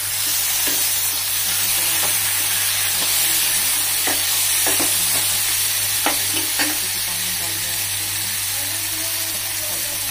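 Chopped onion, tomato and green onion sizzling in hot oil in a non-stick frying pan while a metal ladle stirs and scrapes them. A few sharp knocks of the ladle on the pan come between about four and seven seconds in.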